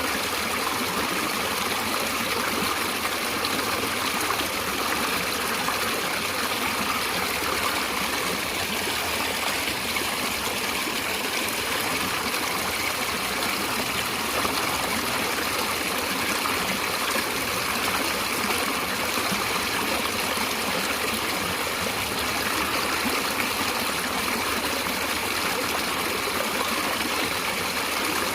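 Flowing stream water running and trickling over rocks, a steady, even rush with no break or change.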